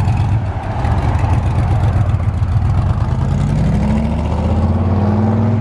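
A car's engine, loud and low, as it drives out. The pitch sags early on, then climbs steadily over the last couple of seconds as it accelerates.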